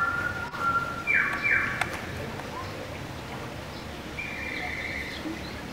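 Birds calling in a few short, high-pitched chirps and whistles over a low, steady background hush.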